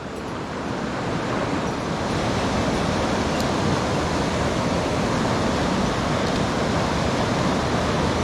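Mountain stream water rushing, a steady even noise that grows a little louder over the first couple of seconds.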